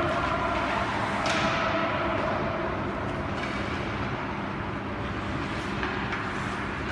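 Indoor ice hockey rink ambience: a steady hum of hall noise with faint steady tones. A single sharp knock comes about a second in, with a few fainter ticks later.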